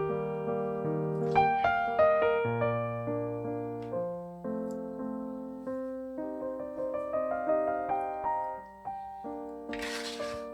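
Piano playing a slow, gentle melody in single struck notes and chords that ring and fade. A brief rustling hiss sounds just before the end.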